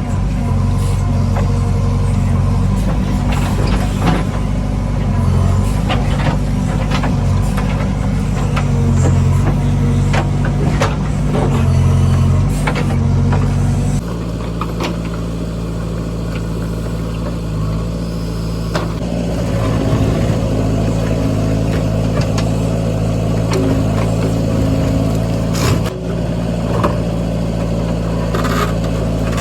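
Diesel engine of a JCB 3DX backhoe loader running steadily under work, with scattered metallic knocks and clanks. The engine note changes abruptly about halfway through.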